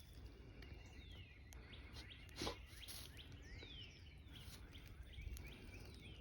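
Faint birdsong: short chirps that fall in pitch, repeated several times. A brief soft noise about two and a half seconds in.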